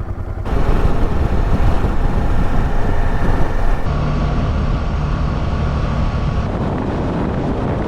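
Honda Deauville motorcycle's V-twin engine running under way, with wind rushing over the microphone. The sound gets louder about half a second in, and a steady engine note comes through from about halfway.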